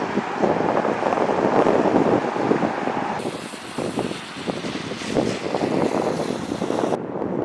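Rushing water of a river running high after heavy rain, mixed with wind buffeting the microphone. The noise changes abruptly about three seconds in and again near the end.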